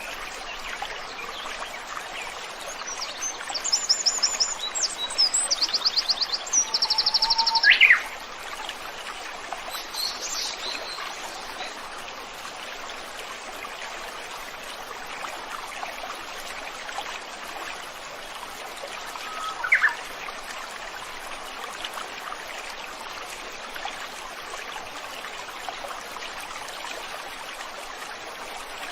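Stream water flowing steadily, with small birds calling over it: fast high trills and chirps between about three and eight seconds in, a short call near ten seconds, and a single sharp call near twenty seconds.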